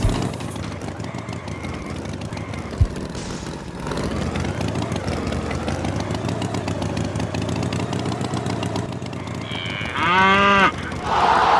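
A short, loud moo from a cartoon bull, about ten seconds in, over a steady background.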